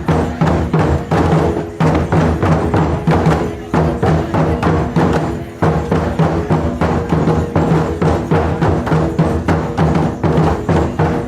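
Ensemble of taiko drums beaten in a fast, driving rhythm, with sharp wooden clicks among the deep drum strokes. The beating breaks off briefly about two, four and six seconds in.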